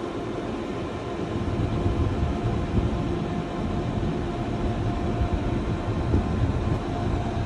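Farm tractor engine running steadily with a low rumble while the tractor drives slowly.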